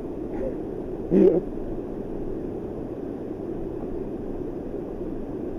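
River rapids rushing steadily. A short, louder sound cuts in about a second in.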